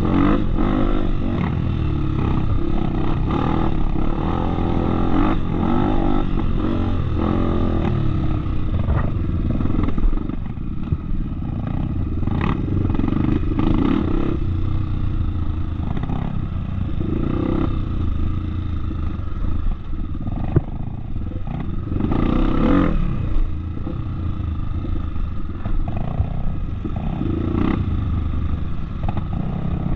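Off-road motorcycle engine running under changing throttle, its pitch rising and falling, with scattered knocks and rattles.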